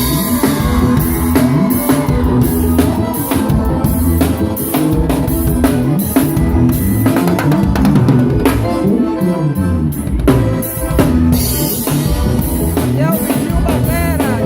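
Band playing an instrumental passage of a praise song: drum kit with kick drum and snare keeping a steady beat under a moving bass line and sustained chords.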